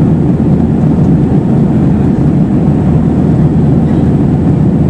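Steady, loud low drone inside the passenger cabin of an Airbus A320-232 in flight: airflow and engine noise from its IAE V2500 turbofans, with no change in pitch or level.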